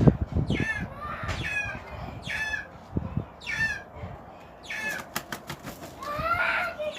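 Birds calling: a string of short, downward-sliding chirps about one a second, with a brief flutter of wings at the start, a quick run of clicks about five seconds in and a longer, lower call near the end.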